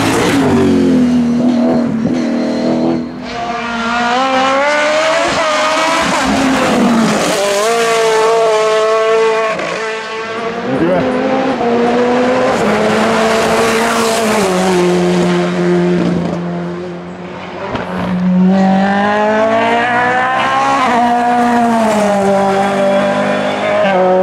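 Hill-climb race car engines at full throttle, the pitch climbing through each gear and dropping at the shifts, several times over.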